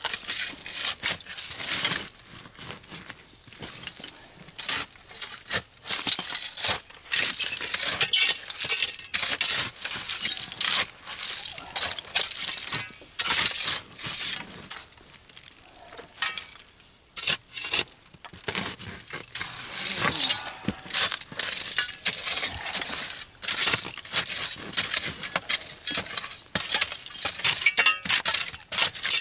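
Shards of glass clinking and scraping against each other and the dirt as a bottle dump is dug through by hand, in many quick irregular clicks and rattles.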